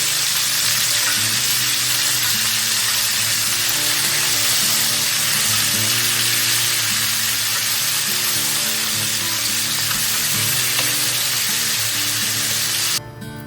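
Food sizzling steadily in hot olive oil in a heavy skillet, with music underneath. The sizzle cuts off abruptly near the end.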